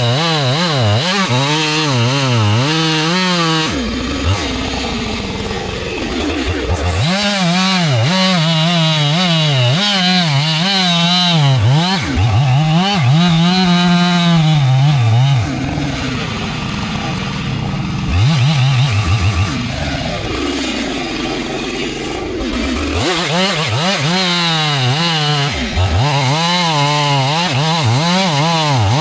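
Chainsaw running at high revs and cutting through wood, its pitch wavering up and down as the chain loads in the cut. Three times the revs drop off for a few seconds between cuts.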